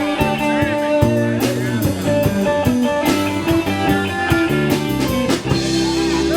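Live band playing an instrumental passage: guitar leading over bass and drums, with regular drum hits.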